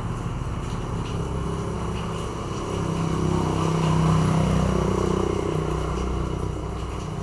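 A vehicle engine passing by: a steady engine hum that grows louder to a peak about four seconds in, then fades.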